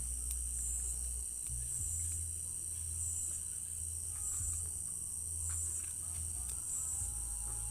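A chorus of crickets chirring continuously at night: a steady, high-pitched trill with a slight regular pulse. A low steady rumble runs underneath.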